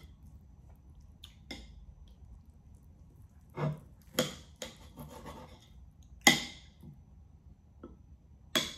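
Close-miked eating sounds of chewing rare steak: a handful of separate short smacks and clicks a second or so apart, the loudest about six seconds in.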